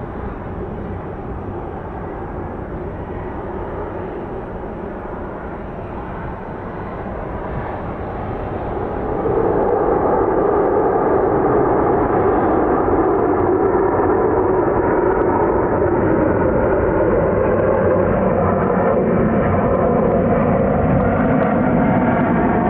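Widebody jet airliner's engines running loud and steady, growing louder about nine seconds in and then holding, with a faint whine over the noise.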